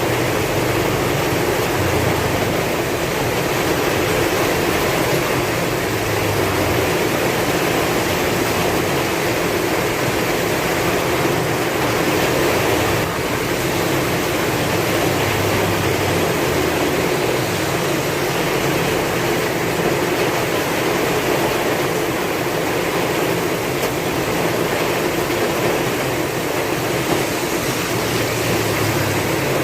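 Heavy rain falling steadily with strong wind, a continuous dense hiss at an even level.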